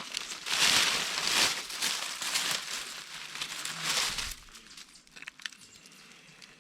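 Rustling, crackling noise that dies down about four seconds in, followed by a few faint clicks.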